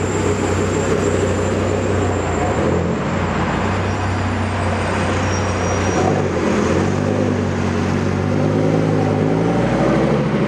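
Car engines running at low revs, with one engine's pitch climbing steadily over the last few seconds as it accelerates away.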